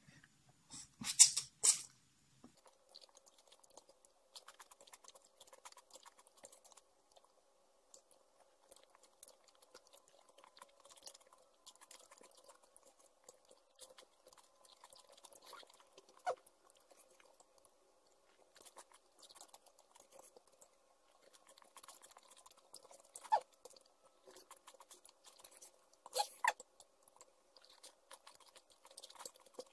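Close-up chewing of Samyang spicy instant noodles, soft and crunchy mouth sounds with occasional sharper clicks. A loud short clatter comes about a second in, and a faint steady hum runs underneath after it.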